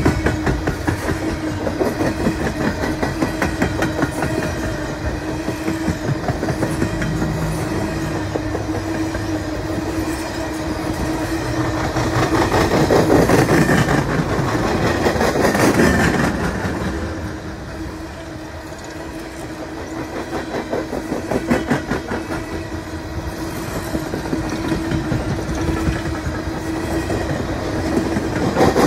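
Canadian Pacific freight train's gondola cars rolling past close by, their wheels clicking over the rail joints in a steady run, with a constant drone underneath. It swells louder about halfway through, then eases off.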